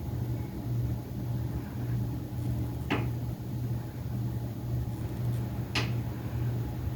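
Hunter Reverse-Aire ceiling fan motor running with a steady low hum. A sharp click comes about every three seconds.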